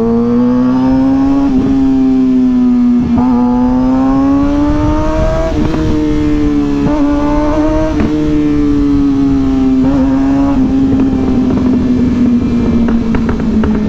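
Suzuki GSX-R 600 inline-four engine running under way at moderate throttle, its pitch climbing and dipping several times as the rider rolls on and off. A rush of wind noise runs underneath.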